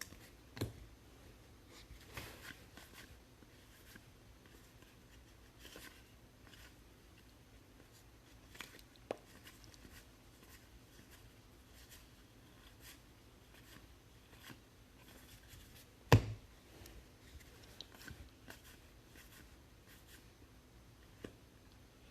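Faint handling of baseball trading cards being flipped through and sorted by hand: soft slides and small taps, with one sharp knock about sixteen seconds in.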